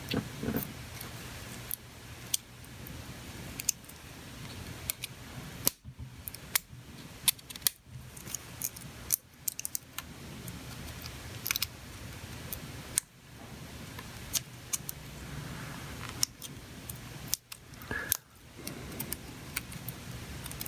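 Scattered small clicks, ticks and taps of hand tools and small parts being handled on a workbench, at irregular intervals.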